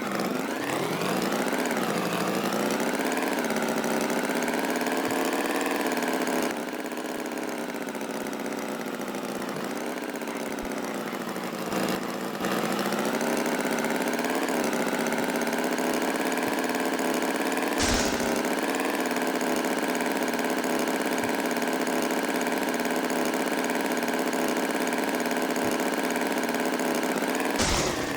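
An engine running steadily, its pitch drifting gently. It drops in level for several seconds, then comes back up, and two sharp clicks stand out, one in the second half and one near the end.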